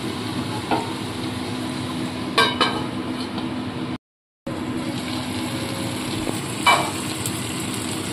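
Ash gourd and hilsa-head curry sizzling steadily in an aluminium kadai, its water cooked off and the oil separating, with a few sharp metal clinks of the spatula on the pan: once about a second in, twice near halfway and once near the end. The sound cuts out briefly in the middle.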